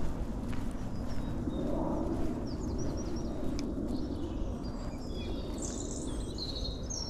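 Small birds chirping over steady low outdoor background noise: a quick run of short high chirps about halfway through, and more calls near the end.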